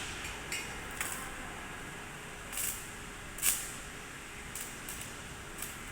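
Electric arc welding in short bursts: about six brief hissing sizzles spread over the seconds, the strongest about halfway through, over a steady low background noise.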